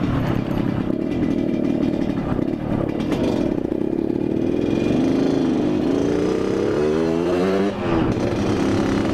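Yamaha RX-King's two-stroke single-cylinder engine running under way, its pitch climbing steadily for a few seconds as it accelerates, then dropping sharply near the end and levelling off.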